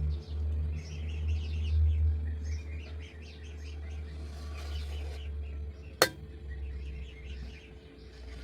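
Small birds chirping repeatedly over a low, steady rumble, with one sharp click about six seconds in.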